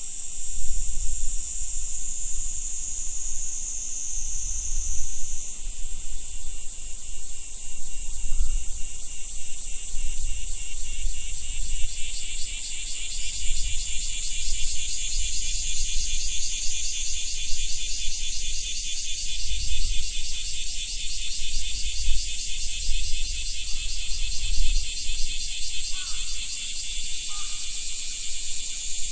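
Insects calling in chorus: a steady high-pitched shrill, joined about six seconds in by a fast pulsing trill, over a low rumble.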